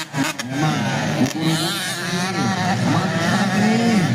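Motocross dirt bike engine revving hard and easing off several times, its pitch rising and falling with the throttle. A few sharp clicks come right at the start.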